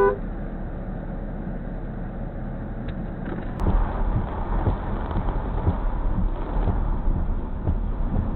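A car's low road and engine rumble while driving, with scattered small knocks; it grows louder about three and a half seconds in.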